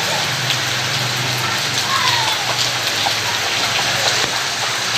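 Rain pouring down steadily, an even hiss of drops hitting surfaces.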